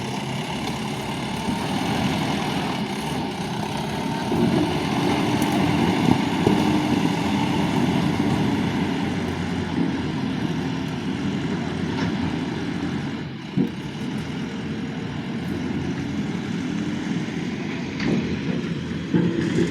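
Diesel engine of a JCB 3DX Plus backhoe loader running steadily, its note rising and easing slightly, with a few faint knocks.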